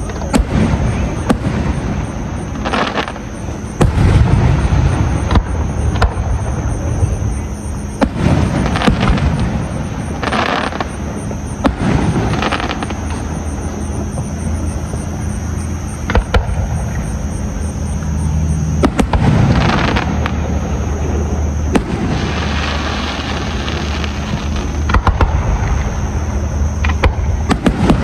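Fireworks display: aerial shells bursting one after another in sharp bangs every second or two, some followed by crackling, over a continuous low rumble.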